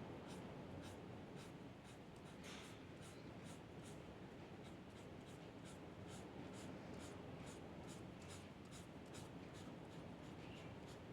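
Quick, repeated strokes of a drawing tool scratching on paper, about three a second, over a faint steady low room hum.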